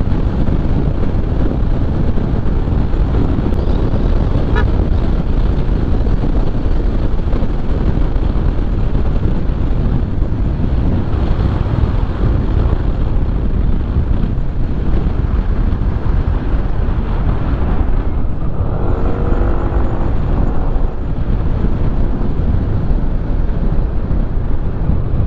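Motorcycle riding at road speed: steady engine and wind rush on the rider's microphone. About 19 seconds in, a pitched sound with several tones bends up and down for roughly two seconds over the noise.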